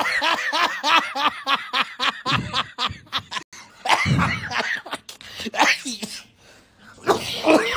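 A man laughing hard in rapid, repeated short bursts, breaking into coughing sounds.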